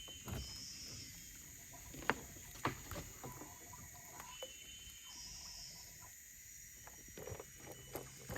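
Steady high-pitched insect drone with two short bursts of high calls, and a few sharp knocks and clicks about two to three seconds in.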